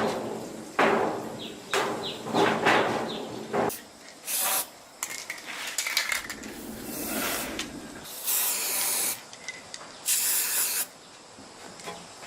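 Several sharp metal strikes with a ringing tail, then three short hissing spray bursts.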